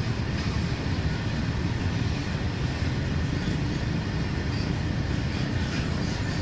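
Freight train of open-top hopper wagons rolling past, a steady low rumble of wheels on rail.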